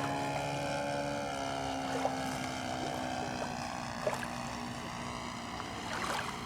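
Radio-controlled seaplane's Saito FG-11 single-cylinder four-stroke petrol engine running with its propeller, the pitch easing down a little and the sound slowly fading. A few short knocks come about two, four and six seconds in.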